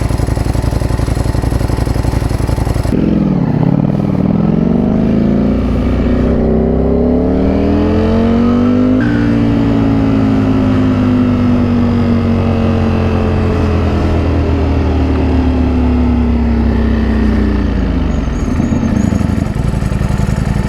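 Ducati Panigale V4 SP's V4 engine running steadily, then accelerating hard with a rising engine note from about three seconds in. A gear change comes about nine seconds in, the note holds high and slowly sags, then falls away as the throttle closes near the end.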